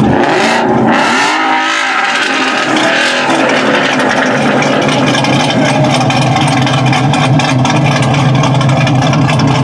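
Car engine revving, its pitch rising and falling in the first few seconds, then running at a steady low pitch.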